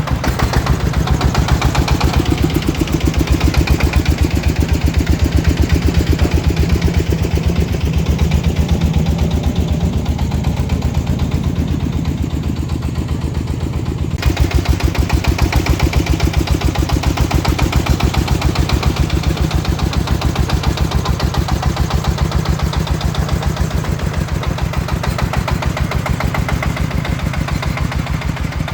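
Diesel engine of a farm truck running with a fast, even pulse. The sound shifts and grows a little louder about halfway through.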